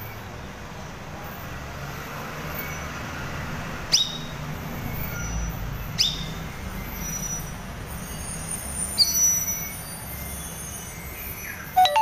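Caged cucak rawis giving short, sharp calls about 4 and 6 seconds in, then a quick run of whistled chirps around 9 seconds and a falling call near the end, over a steady low rumble.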